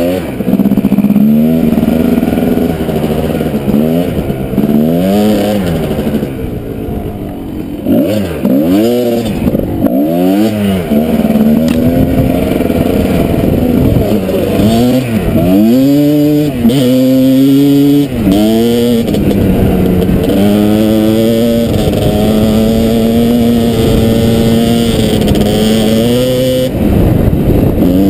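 Kawasaki KDX220 two-stroke single-cylinder dirt bike engine revving up and down over and over as the throttle is opened and closed, then holding a fairly steady pitch for several seconds in the second half, with a short dip near the end.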